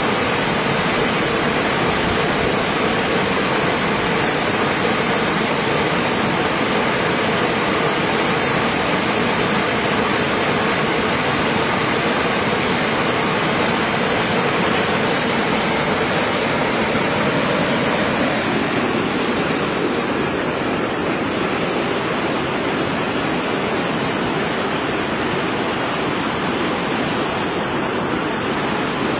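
Steady, loud rushing noise, with a slight change in its tone about eighteen seconds in.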